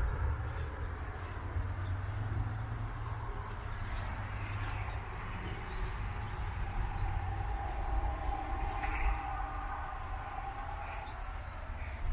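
Steady high-pitched insect chorus over a low rumble, with a faint drawn-out tone joining in about two-thirds of the way through.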